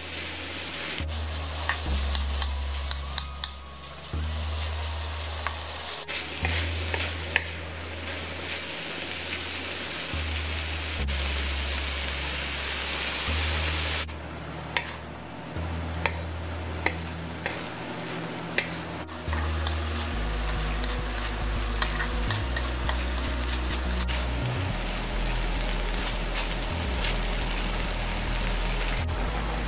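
Mashed smoked herring and onion sizzling in hot oil in a nonstick wok, stirred with a plastic spatula that scrapes and taps the pan now and then, over background music.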